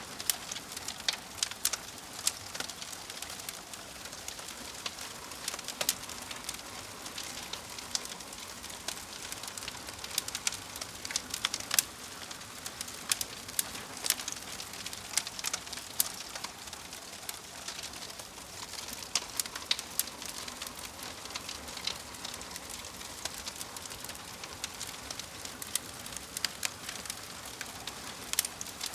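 Wood fire burning in a fireplace: a steady hiss with frequent sharp crackles and pops from the logs, irregular and scattered throughout.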